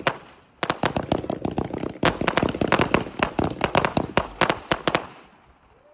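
Consumer fireworks going off: a fast, dense run of sharp crackling pops that starts about half a second in and dies away near the end.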